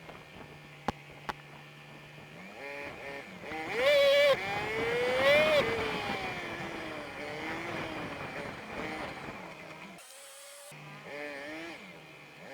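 Honda Super Cub 50's single-cylinder engine, heard through its dashcam in fast-motion playback. A steady low hum with two sharp clicks gives way, about a quarter of the way in, to a high sped-up engine whine that rises and falls again and again as the bike pulls away and changes up through the gears. The sound cuts out briefly near the end.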